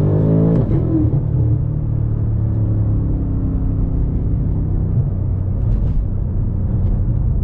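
BMW M5 Competition's twin-turbo V8 under way: its note climbs in pitch to about half a second in, drops back, then runs at a steady low pitch.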